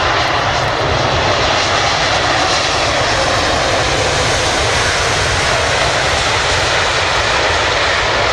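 Jet airliner's engines passing close by: a loud, steady jet noise that swells a little at the start and then holds.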